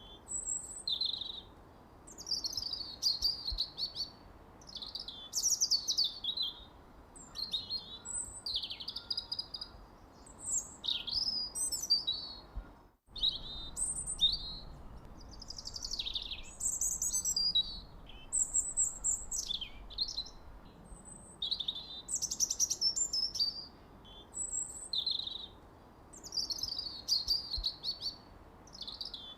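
Songbirds singing: short phrases of high, quickly falling and trilled notes repeat every second or two over a faint background hiss. The sound cuts out completely for a moment about halfway through.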